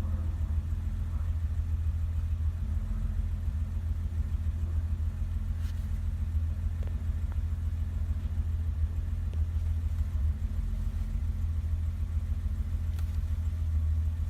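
1988 BMW 325's straight-six engine idling steadily, warming up a few minutes after a cold start; it idles smoothly and evenly, as it should.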